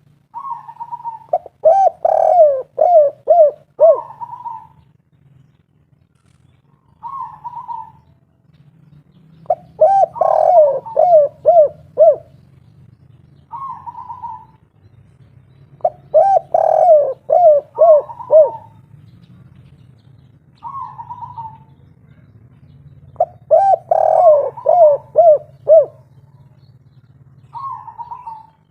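Tekukur (spotted dove) singing its 'kuk 3' cooing song over and over: single higher coos alternate with phrases of about five quick, falling coos, a phrase every six to seven seconds, over a faint low hum.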